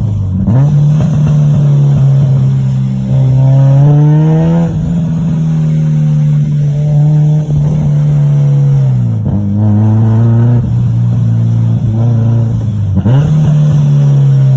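Turbocharged 8th-generation Honda Civic engine and exhaust accelerating hard through the gears, loud throughout. The revs climb, drop sharply at each shift about nine and thirteen seconds in, then climb again.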